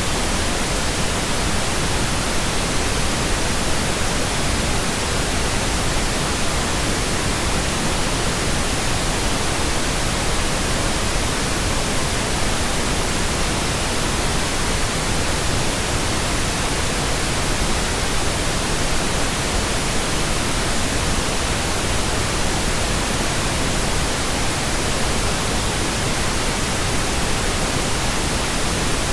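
Steady computer-generated pink noise: an even, unchanging hiss spread across all pitches.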